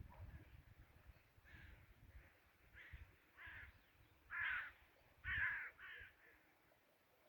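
A crow cawing repeatedly, about six harsh calls, with the two loudest near the middle.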